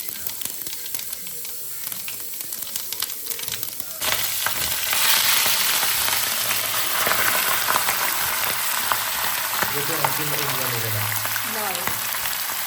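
Chicken meat sizzling as it fries in hot ghee; the sizzle gets suddenly louder about four seconds in.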